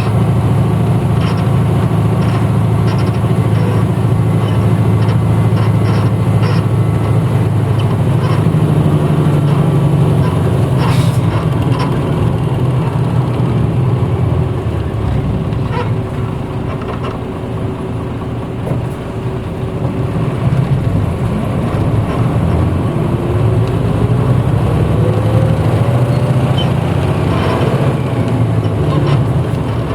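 Cabin recording of a 1994 Hino Blue Ribbon city bus's diesel engine while driving: a steady low engine drone that eases off about midway. In the last third a whine rises in pitch as the bus speeds up again, with small rattles and clicks from the interior throughout.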